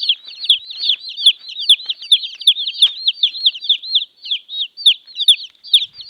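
A basketful of baby chicks peeping: continuous high-pitched cheeping from several chicks at once, many short downward-sliding chirps a second overlapping one another.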